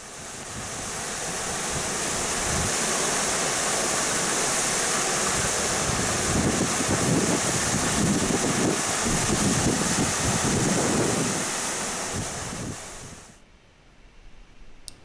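Steady rushing hiss of running water, with wind buffeting the microphone in the middle; it swells in over the first couple of seconds and fades away near the end.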